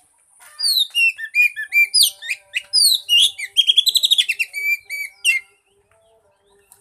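Oriental magpie-robin singing a rapid, varied song of clear whistles and sweeping notes with a fast trill in the middle; it starts about half a second in and stops about five seconds in. This is the loud song played as a lure to get a silent magpie-robin singing.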